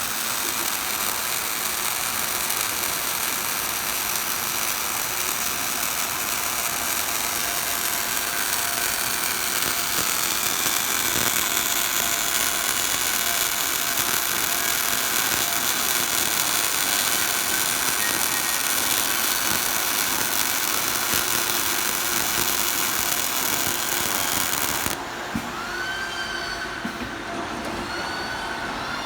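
Automatic scaffolding ledger welding machine at work: a loud, dense, steady hiss and crackle with mechanical clatter. About 25 seconds in it abruptly turns quieter and duller, with a few short squeaks that rise and fall.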